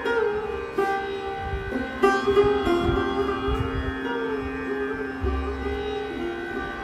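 Sarod being played solo: plucked metal strings with notes that slide in pitch between strikes, and a low note left ringing for a few seconds in the middle.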